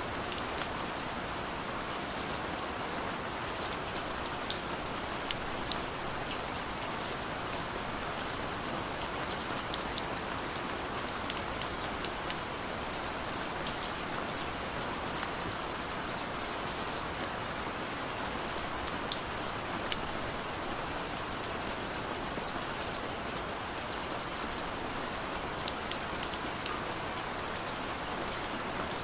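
Heavy rain falling steadily: a dense hiss with many sharp taps of single drops scattered through it.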